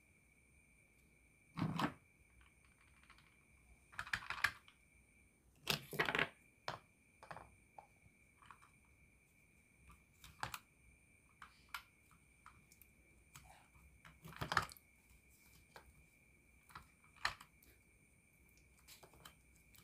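Hard plastic toy parts being handled: scattered clicks and knocks as a plastic toy train is gripped, its perforated disc is taken off and play dough is pressed into it, with a handful of louder taps among many faint ticks. A faint steady high tone runs underneath.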